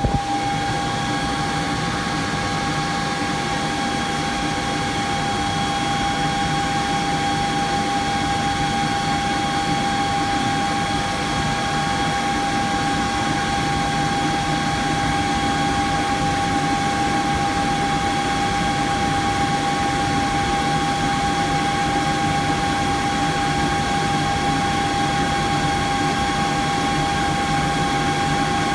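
Inverter-driven electric motor and drive running steadily, giving a constant high whine over a machine hum.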